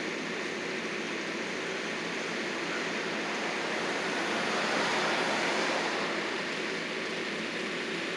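Landscaping machine engine running steadily, swelling a little louder about four to six seconds in.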